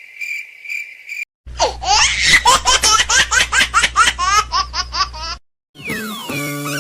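A high-pitched laughter sound effect: rapid ha-ha pulses, about four a second, lasting about four seconds. It is preceded by a brief steady beep-like tone, and a gliding musical tone starts near the end.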